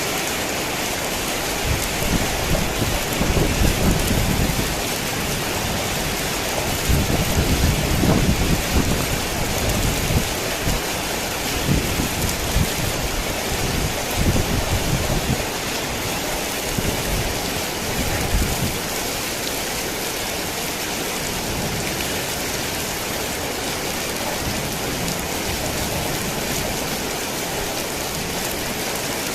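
Heavy rain falling steadily, with thunder rolling in low rumbles from about two seconds in, loudest a few seconds later and dying away a little past the middle.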